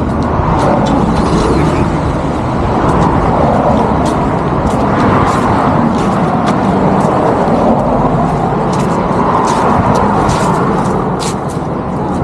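Steady road-vehicle noise: a continuous, loud rush of engine and tyre sound with a low hum and scattered faint ticks.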